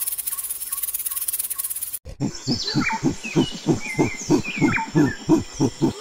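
High insect chirring with a few faint bird chirps. About two seconds in it cuts off sharply, and a monkey takes over with a steady run of low, rhythmic grunting calls, about four a second, while birds chirp in the background.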